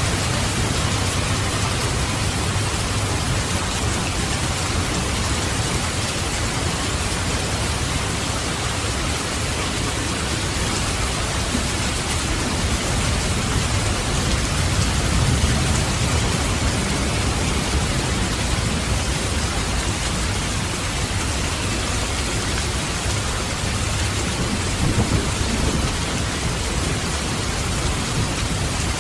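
Steady heavy rain with low rolls of thunder, which swell about halfway through and again near the end.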